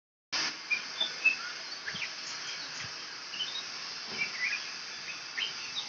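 Scattered short bird chirps over a steady high drone of crickets or other insects.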